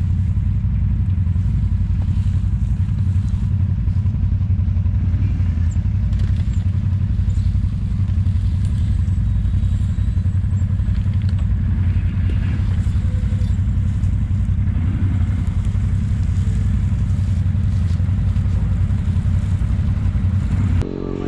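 Off-road vehicle engine running steadily under way, heard from on board. The sound changes abruptly shortly before the end to a different engine note.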